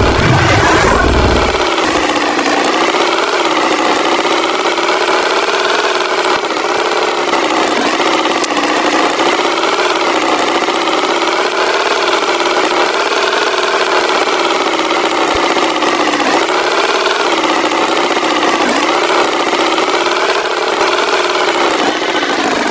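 An engine running steadily, its pitch wavering slowly up and down, with a low rumble in the first couple of seconds.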